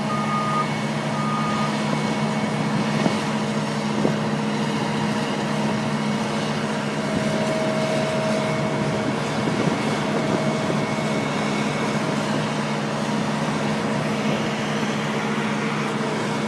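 Heavy vehicle engine, most likely a tractor's, running at a steady pitch, with higher whining tones that come and go above it.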